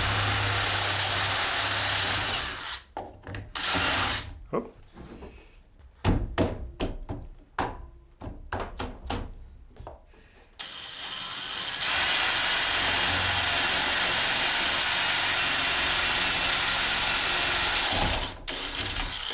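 Power drill drilling holes to fit a ladder foot. It runs steadily for about three seconds and briefly again about four seconds in. Scattered clicks and knocks follow over the next six seconds, and then the drill runs again for about seven seconds until near the end.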